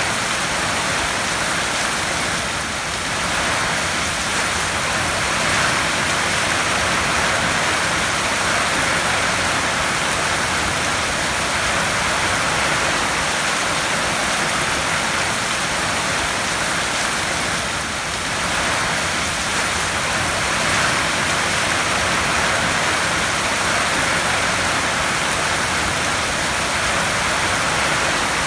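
Heavy rain falling steadily on a tin roof, a dense even patter that eases slightly twice.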